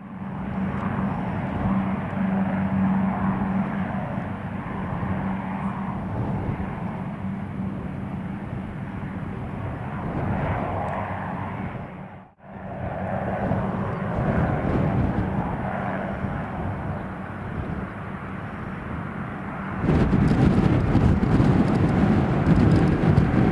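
Jet airliner engine noise at an airfield mixed with wind noise: a steady rushing sound over a low hum. It drops out briefly about twelve seconds in and grows louder about twenty seconds in.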